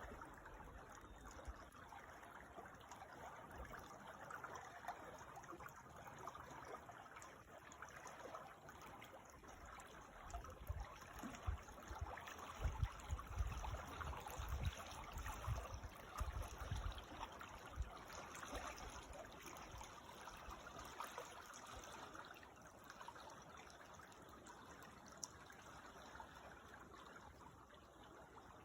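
Creek water trickling and babbling in a faint, steady wash, with intermittent low rumbles through the middle.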